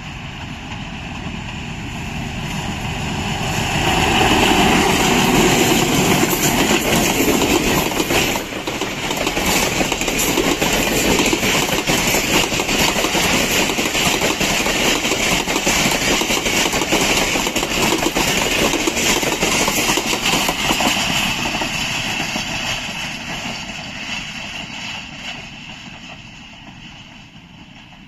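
A diesel-hauled passenger express train passing at speed. The locomotive's engine builds up and goes by about four to six seconds in. Then the long rake of coaches rumbles past, clattering over the rail joints, and fades away as the end of the train recedes.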